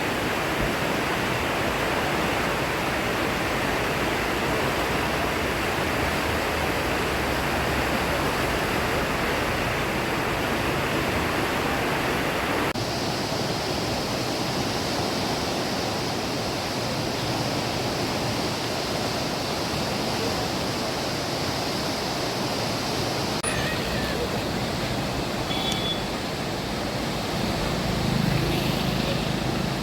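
Swollen Chenab river in spate, its fast floodwater rushing in a steady, even wash of noise. The sound changes character suddenly about 13 seconds in, as at a cut between shots.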